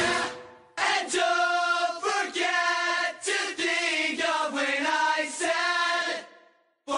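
Background music: a rock track fades out, then a choir sings long, held chords with no bass or drums. The singing breaks off briefly near the end and starts again.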